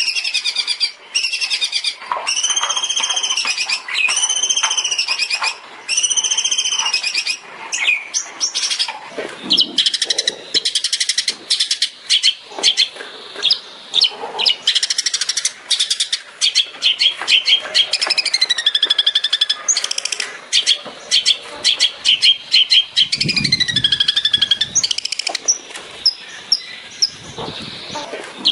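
Long-tailed shrike (cendet) singing. It opens with a run of repeated arched whistled notes, then breaks into rapid chattering notes mixed with varied whistled phrases.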